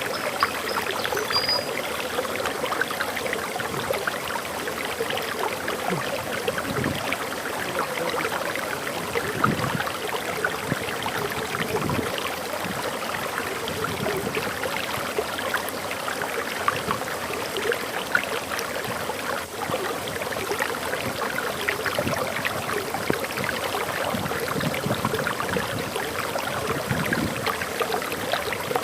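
Water pouring over a small forest waterfall: a steady rush of splashing and gurgling that stays even throughout.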